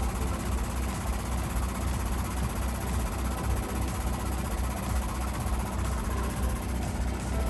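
An engine running steadily at idle, a continuous low rumble with an even pulse.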